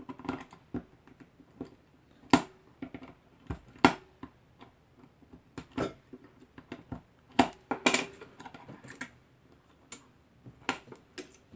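Irregular sharp clicks, snaps and small handling noises from hands working Cat6 cable wires into a patch panel, with a few louder clicks scattered through.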